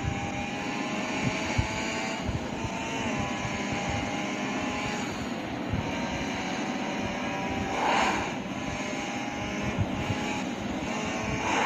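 Motorcycle engine running steadily on the move, its pitch shifting slightly, with wind rumbling on the microphone. Brief louder rushes come about eight seconds in and again at the end.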